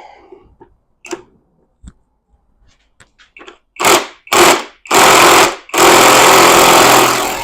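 Impact wrench running on a homemade bearing puller to pull a bearing off a manual transmission shaft. A few light clicks come first as it is set in place. About four seconds in it gives two short bursts of rapid hammering, then two longer runs.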